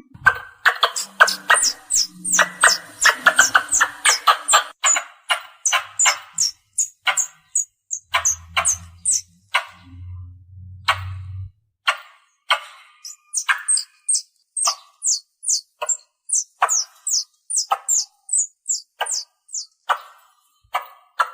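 Squirrel calling: a long, rapid run of sharp, high chirps, each a quick downward sweep, several a second, used to call and lure other squirrels.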